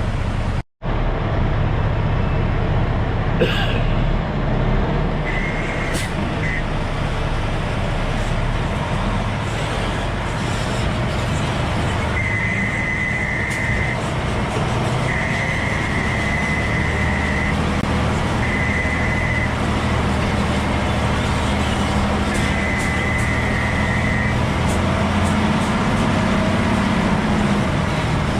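Diesel log truck engine running steadily, with a high steady tone sounding in several separate bursts of one to two seconds. The sound cuts out completely for a moment under a second in.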